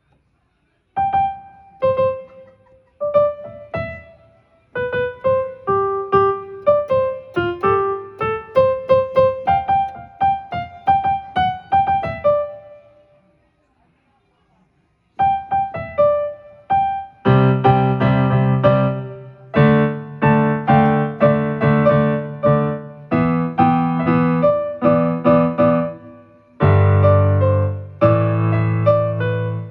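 Electronic keyboard with a piano sound, played by a beginner: a simple melody picked out one note at a time, then after a short pause the melody again with low chords added underneath.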